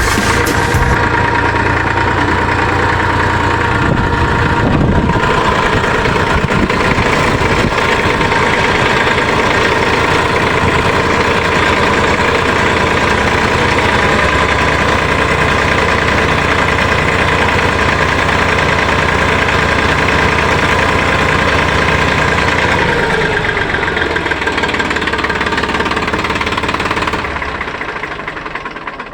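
Mini tractor engine running steadily with a dense, even knock of firing strokes; its pitch falls a little about three quarters of the way through and the sound then dies away near the end.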